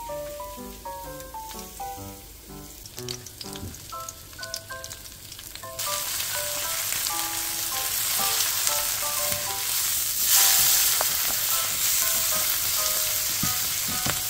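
White kimchi (a quarter head of baek-kimchi) frying in perilla oil in a nonstick pan, turned with tongs; the sizzle jumps up loud and steady about six seconds in. Light background music with soft mallet-like notes runs underneath, most audible before the sizzle rises.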